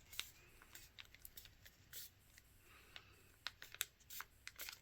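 Faint, scattered ticks and crinkles of a sheet of paper being handled and creased as a paper airplane's wings are folded, with more of them in the second half.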